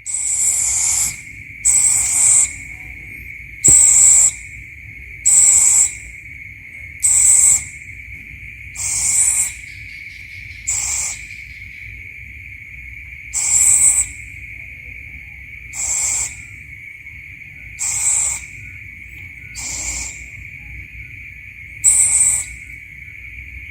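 An owl calling over and over, one short call about every two seconds, over a steady high insect drone.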